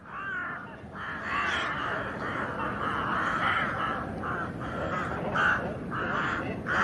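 A number of birds giving harsh, crow-like calls, one after another and overlapping, over a steady rushing background noise.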